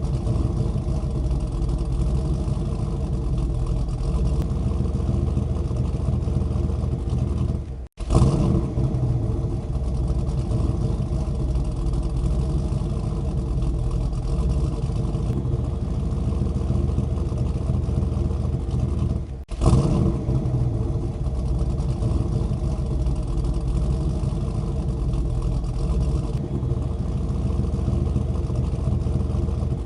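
An engine running steadily at constant speed. It cuts out for an instant twice, about a third and two thirds of the way through, then carries on unchanged.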